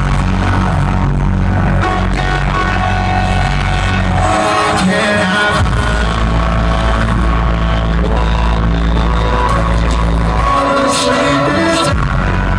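Loud live concert music with a heavy bass line and some singing; the deep bass drops out briefly twice.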